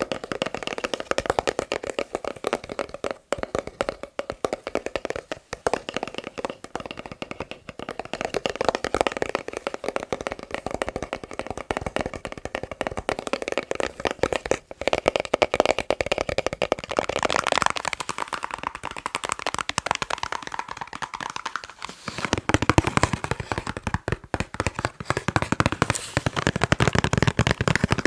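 Rapid fingertip and fingernail tapping on boxes, a dense run of quick clicks. About three-quarters of the way through, the taps turn deeper and fuller, as on a different box.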